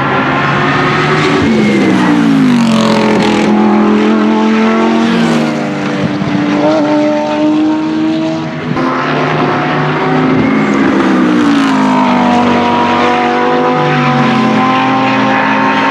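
Lamborghini Huracán GT3 Evo race car's V10 engine running at high revs. Its pitch falls steeply twice, about two seconds in and again around twelve seconds in, and holds steadier in between.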